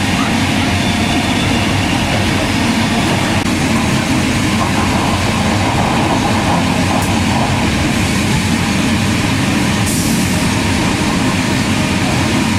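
Steady running noise of a steam-hauled passenger train at speed, heard from the leading carriage behind steam locomotive 3016, with a brief sharp click about ten seconds in.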